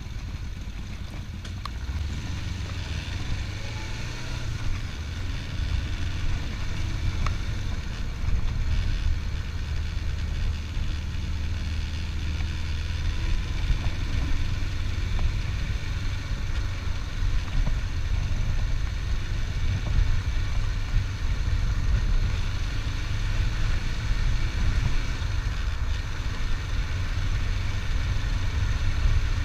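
Motorcycle engine running steadily while riding, a continuous low rumble that slowly grows louder.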